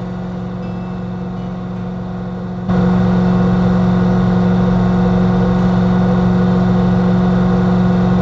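Vehicle engine running steadily, a constant hum that turns abruptly louder about a third of the way in.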